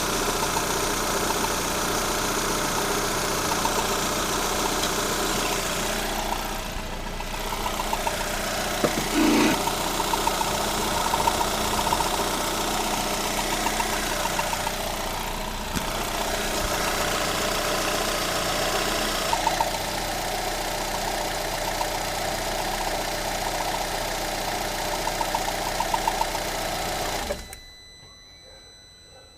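Lada Granta's 126 (1.6-litre 16-valve four-cylinder) engine idling with a scraping, knocking noise from the front of the engine, which is the belt tensioner roller rubbing the crankshaft pulley. The running sound cuts off suddenly near the end.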